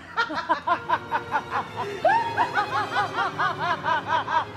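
Exaggerated, scheming laughter: a fast, steady run of high 'ja ja ja' syllables, about four or five a second, growing louder about two seconds in.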